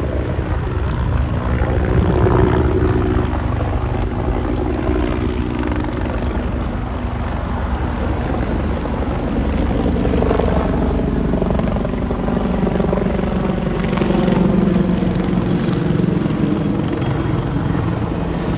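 Helicopter flying over, its rotor beating rapidly and steadily over a constant engine drone.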